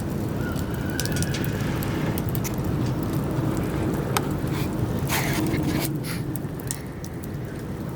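Wood campfire burning: a low steady rumble with many scattered small crackles and pops.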